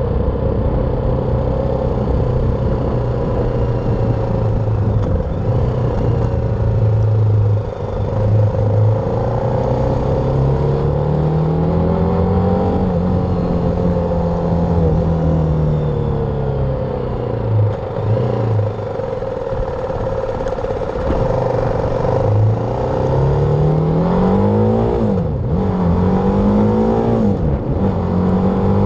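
BMW G310R's single-cylinder engine running under way, its pitch holding steady, rising and falling with the throttle. Near the end the revs climb in several short steps, dropping back between them as it shifts up through the gears.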